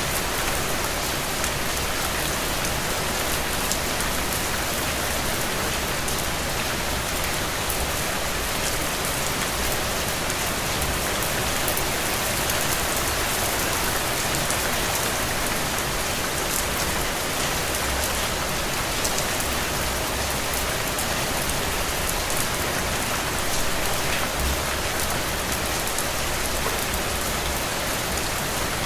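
Steady rain falling: an even, constant hiss with faint scattered drop ticks.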